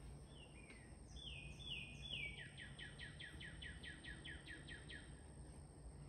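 A songbird singing faintly: a few slurred, falling whistles, then a quick run of about ten falling notes at about four a second.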